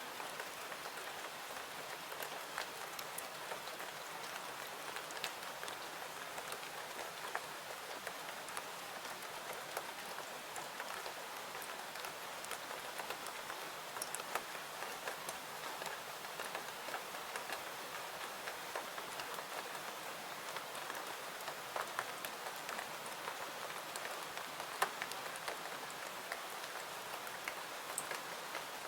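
Steady rain falling, an even hiss, mixed with a crackling wood fire whose sharp pops and clicks are scattered irregularly through it.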